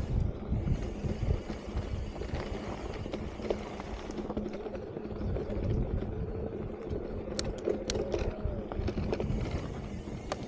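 Electric mountain bike ridden over loose, rocky dirt singletrack: a steady rumble of tyres on the trail and wind on the camera microphone, with a few sharp clicks of stones or bike rattle about seven and a half seconds in and again near the end.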